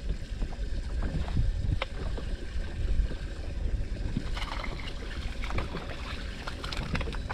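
Small fishing boat on open water with a steady low rumble of water and air around the hull. Light clicks and splashy rattles come and go, and they thicken from about halfway through.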